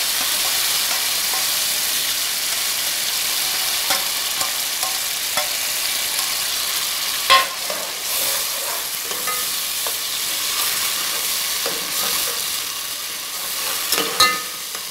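Soaked fenugreek seeds and onion sizzling in hot oil in a metal pot while a metal slotted spoon stirs them, with a sharp clink of the spoon on the pot about seven seconds in and again near the end.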